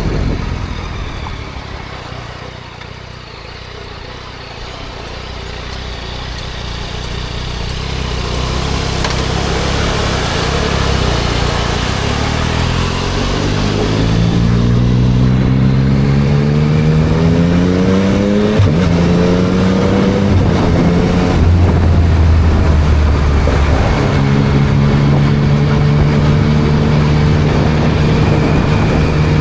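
Yamaha MT-09 SP's 890 cc inline-three engine through a Spark aftermarket exhaust, heard from the rider's seat. It first eases off and quietens, then accelerates with rising pitch, shifts up about eighteen and a half seconds in, pulls again and settles to a steady cruise. Wind and road noise run throughout.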